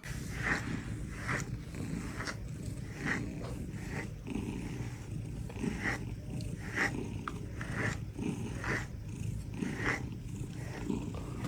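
A pet animal's sounds: a steady low rumble with short, higher-pitched sounds repeating about once a second.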